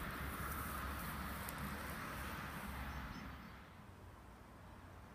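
Rumble of a train going away down the line, fading out about three and a half seconds in.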